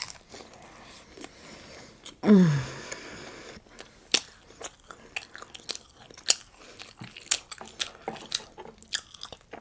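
Close-up eating sounds: biting and chewing, with many short, sharp crunchy clicks and mouth noises. About two seconds in, a brief wordless vocal sound falls in pitch.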